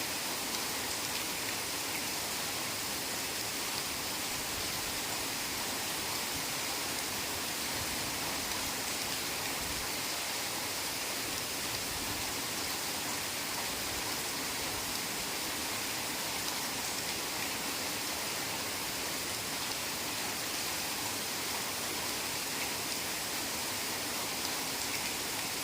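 Heavy rain falling steadily, a dense, even hiss with no separate drops or other events standing out.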